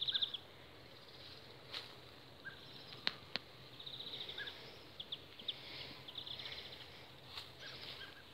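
Songbirds singing outdoors: several fast, high trills with short chirps in between, over a faint steady hiss of ambience. A couple of sharp clicks sound about three seconds in.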